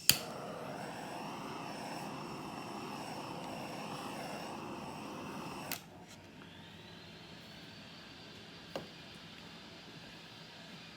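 Handheld torch clicking on and burning with a steady rushing hiss for about six seconds, then shut off with a click; a fainter steady hiss follows.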